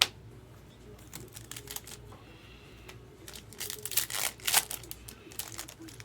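Baseball cards and their pack being handled: a sharp click at the start, then scattered light clicks and rustling, busiest and loudest about four seconds in.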